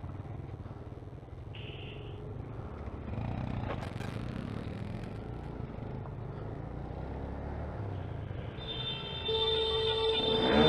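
Small motorcycle engines idling with a steady low rumble. Near the end one engine comes in louder and keeps building.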